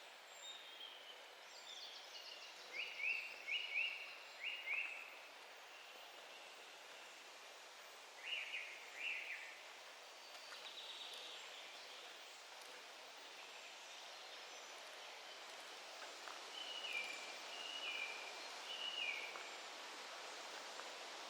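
Forest songbirds singing in short phrases of a few quick, high notes, several times with pauses between, over a soft steady hiss of forest ambience.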